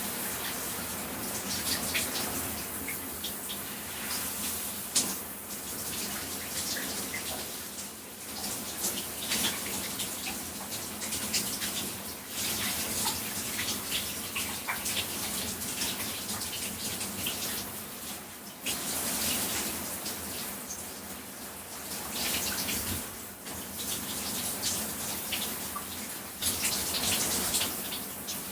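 Shower spray running and splashing irregularly as it falls on a person's body and the floor beneath, the splatter shifting in loudness as the body moves through the stream.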